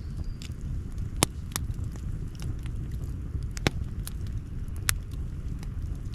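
Wood campfire crackling: irregular sharp pops and snaps, a few of them louder, over a steady low rumble.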